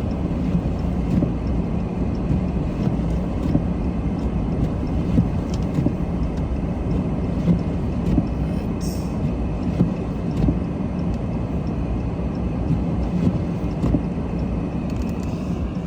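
A car being driven, heard from inside the cabin: a steady low rumble of engine and tyres with a few small clicks.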